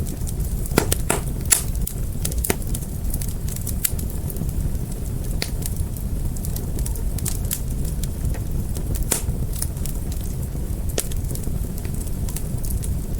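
Wood fire burning, with a steady low rumble and frequent irregular crackles and sharp pops, the strongest pops in the first few seconds.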